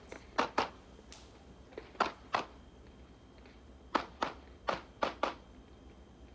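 9mm Glock 19 pistol fired in quick double-taps at targets, about four pairs of shots with a short pause between each pair.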